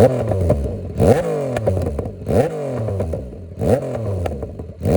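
Yamaha Tracer 900's three-cylinder engine revved in quick throttle blips, about one a second, the pitch shooting up sharply and falling back each time.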